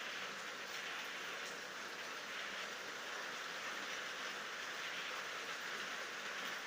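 Steady rain falling: an even hiss with no thunder.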